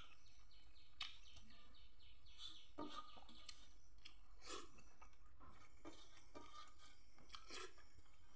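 Faint chewing of rice eaten by hand, with a few soft clicks and scrapes of fingers against a metal plate as the rice is mixed and scooped.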